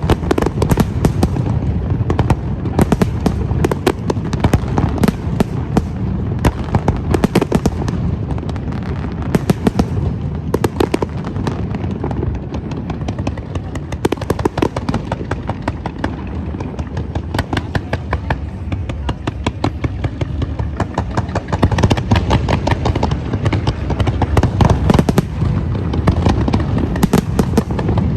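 Fireworks display: a continuous barrage of rapid crackling bangs and booms over a steady low rumble, growing denser near the end.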